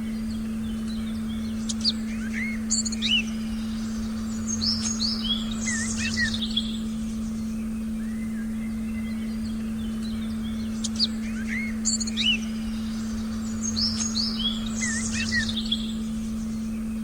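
A steady, unchanging meditation tone held under forest birdsong of chirps and short whistles. The same run of bird calls comes round again about every nine seconds, as in a looped recording.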